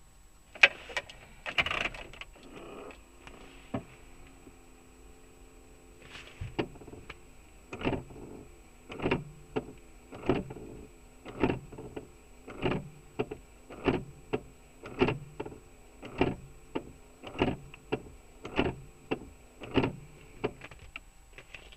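Heater (blower) unit of a VAZ-2112 making an extraneous noise: a few clicks and a brief hum, then short regular knocks about once every 1.2 seconds. The owner says this noise goes away once the heater has run on full for a while.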